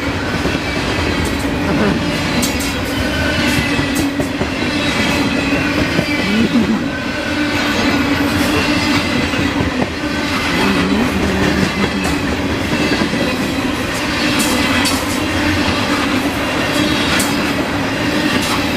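A freight train of loaded grain cars rolling past close by: a steady rumble of steel wheels on rail, with irregular clacks as the wheels pass over rail joints.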